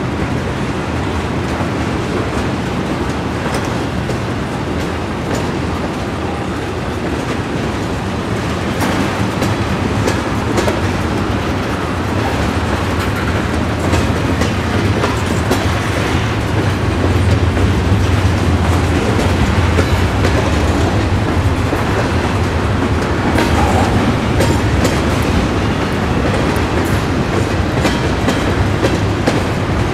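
Norfolk Southern freight train of tank cars rolling past, a steady loud rumble with the wheels clicking and clacking over the rail joints.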